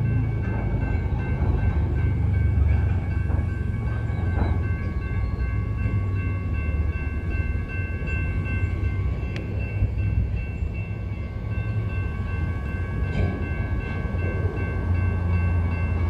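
Freight train of loaded tank cars rolling slowly past with a steady low rumble and a continuous high-pitched squeal, with a few light clanks. The squealing is the bad noise that halted the train.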